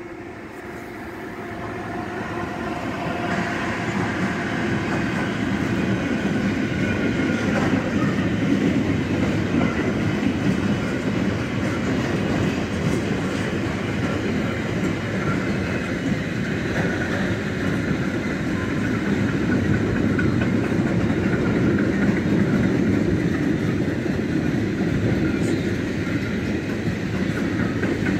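A Bombardier TRAXX class 186 electric locomotive approaches and passes, getting louder over the first few seconds, followed by a long autorack freight train of loaded double-deck car-carrier wagons rolling by with steady wheel noise and clickety-clack over the rails.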